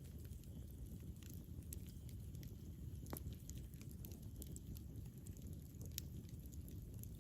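Campfire burning: wood crackling with scattered sharp pops over a steady low rumble of the flames, with two louder pops about three and six seconds in.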